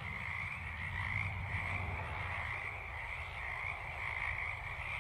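Frogs calling in a steady, continuous chorus.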